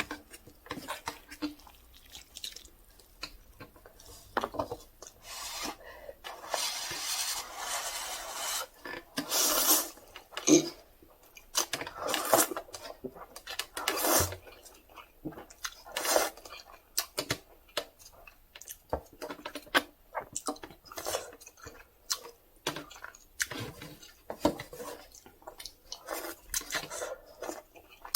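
Close-miked eating of Dosirak instant cup noodles: slurping and chewing, with utensil clicks against the cup. There are many short sharp sounds and a few longer noisy slurps, the longest a little after the first quarter.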